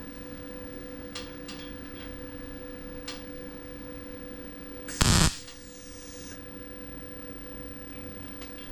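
A steady electrical hum with a few faint clicks early on. About five seconds in comes one short, loud burst of noise lasting about a third of a second, from work on the sheet-metal fender patch, followed by a fading high ring.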